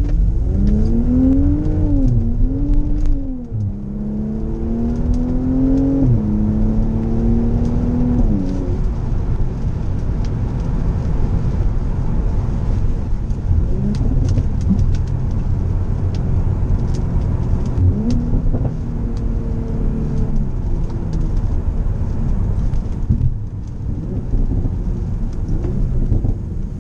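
Mercedes-AMG SLC 43's 3.0-litre twin-turbo V6 heard from inside the cabin: the revs rise and fall twice, then climb steadily and drop with a gear change about six seconds in and again near eight seconds. After that it settles into a steady drone of engine and road noise, with brief rises in engine pitch.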